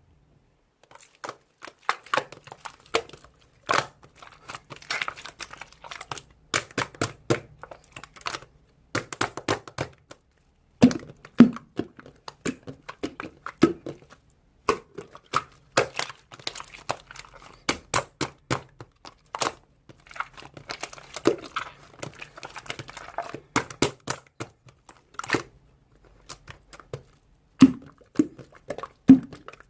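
Slime being squished, stretched and folded by hand: irregular sharp clicking pops with short stretches of crackling in between.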